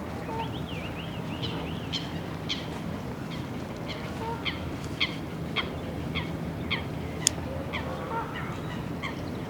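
A bird calling repeatedly, short sharp downward calls about twice a second, over a steady low background rumble. A single sharp click stands out about seven seconds in.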